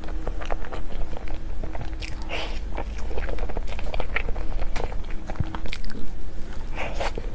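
Close-miked eating sounds: a person biting and chewing dessert, with many short crisp crunches and moist mouth sounds.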